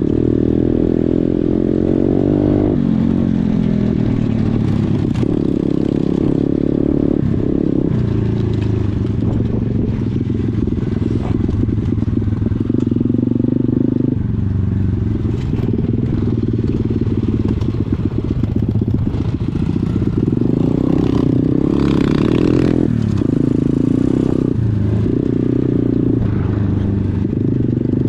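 Small single-cylinder pit bike engine running under load while riding, its revs holding for a few seconds at a time, then dropping and picking up again with the throttle, with some rattle and clatter over it.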